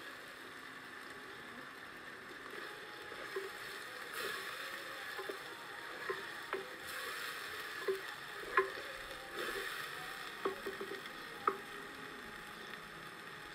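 Thick vegetable masala sizzling in a black pot on a wood-fired clay stove while a wooden spoon stirs and scrapes it, with scattered sharp knocks of the spoon against the pot.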